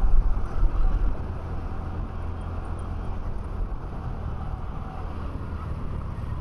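Motorcycle riding in traffic heard from a helmet-mounted camera: the bike's engine running under a steady rumble of wind on the microphone, gustier in the first second or so.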